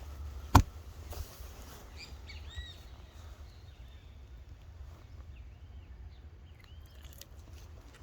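Birds chirping in short, arched calls, over a steady low rumble. A single sharp click about half a second in.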